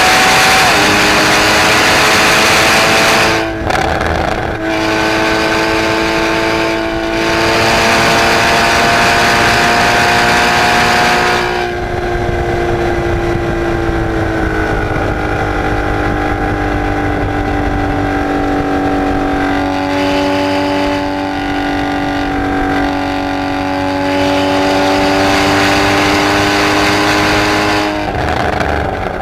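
Porsche Cayman GTS's flat-six engine running hard at high revs, heard from inside the cabin over wind and tyre noise. The sound dips briefly about three and seven seconds in, and the engine note sinks a little partway through before holding steady.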